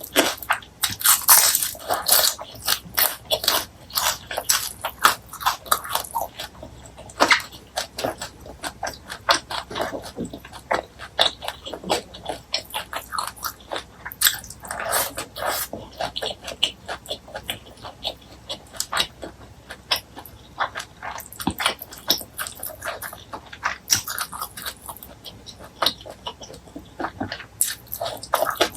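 Close-miked eating sounds from a meal of fried fish and rice: a dense, irregular run of crunching, chewing and wet mouth clicks and smacks.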